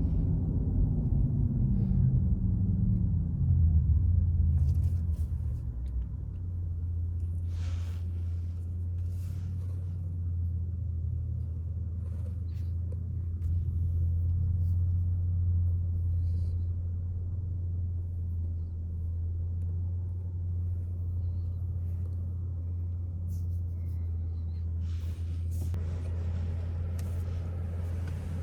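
Porsche Taycan electric car driving, heard as low road and drivetrain rumble. Over the first six seconds a low hum falls in pitch and the level drops, then it settles into a steady low drone.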